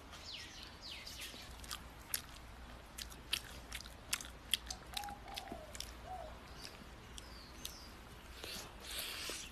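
A person chewing a charcoal-grilled pig's trotter close to the microphone, with irregular sharp mouth clicks and smacks as they bite and chew.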